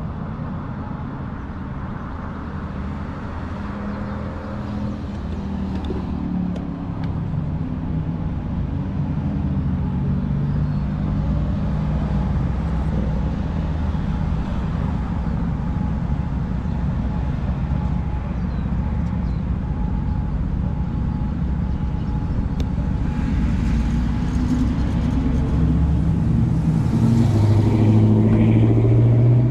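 Car traffic going by during a bicycle ride recorded on a GoPro, over a steady low rumble of riding noise. A vehicle's engine grows louder over the last few seconds as it comes close.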